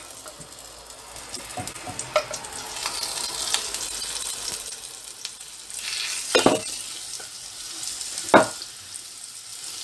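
Floured cubes of beef liver sizzling as they fry in hot oil in a frying pan, stirred with a wooden spatula, which knocks sharply against the pan twice in the second half.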